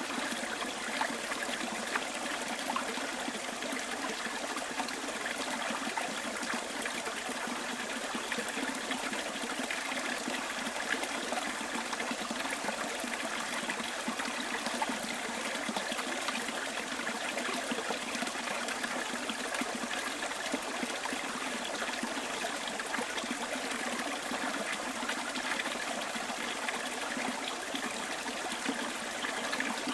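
Small stream trickling and burbling over stones, a steady even flow of water.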